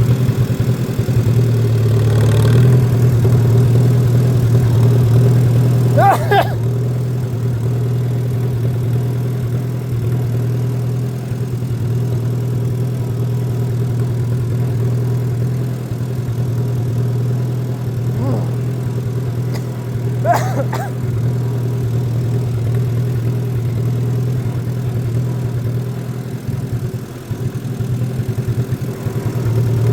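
Tractor engine running steadily while mowing grass, a constant low drone. Two brief, higher-pitched sounds cut through it, about six seconds in and again about twenty seconds in.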